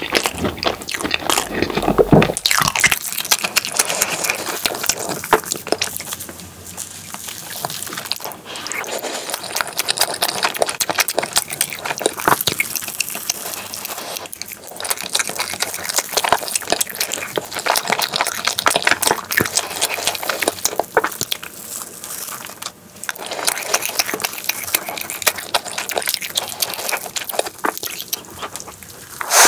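Close-miked wet chewing and lip-smacking of soft chocolate crepe cake layered with whipped cream: a steady run of small sticky clicks and squelches.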